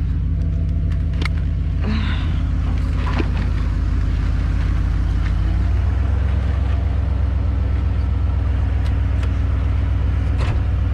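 Truck engine running steadily, with a few light clicks and knocks over it; the engine note changes about halfway through.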